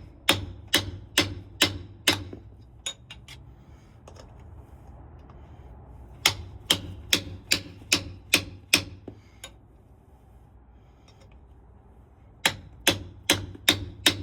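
Hammer blows in three quick runs of about five to eight evenly spaced strikes, roughly two a second: one near the start, one around the middle and one near the end, with quieter pauses between.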